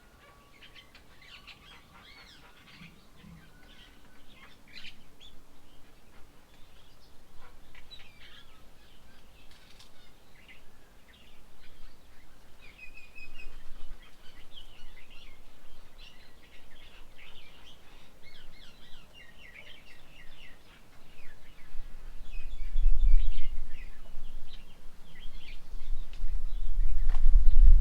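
Small birds chirping and twittering in quick, scattered calls. In the last few seconds a low rumble swells up and drowns out the calls.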